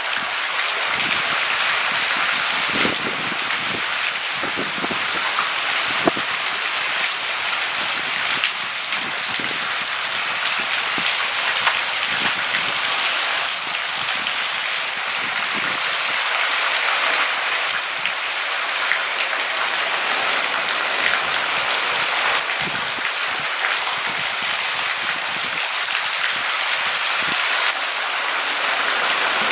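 Steady rain falling, a constant hiss with many individual drops ticking close by.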